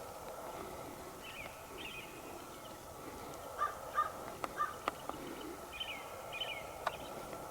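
Birds calling: three short calls in quick succession a little past halfway, over higher twittering from smaller birds, with a few sharp clicks.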